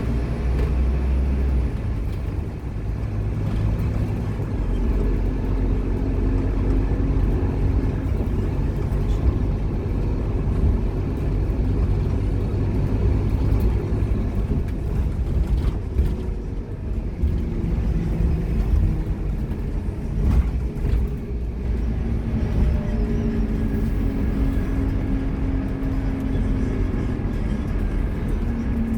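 Scania K230UB single-deck bus's diesel engine running under way. Its note rises and falls several times as the bus pulls and the gearbox changes gear.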